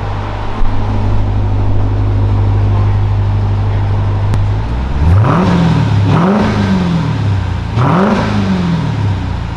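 2023 Dodge Durango SRT Hellcat's supercharged 6.2-litre V8 idling steadily through its stock mufflered exhaust, then revved three times, at about five, six and eight seconds in, each rev rising and dropping quickly. The stock exhaust is fairly quiet.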